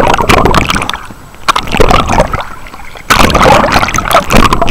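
Water splashing and sloshing right against a waterproof camera held by a swimmer stroking and treading water with one arm, in irregular loud bursts with a couple of brief lulls.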